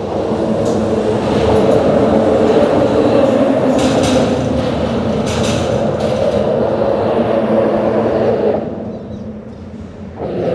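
Traffic crossing a bridge: a steady loud rumble with several humming tones. It fades about nine seconds in, then builds again as the next vehicle comes.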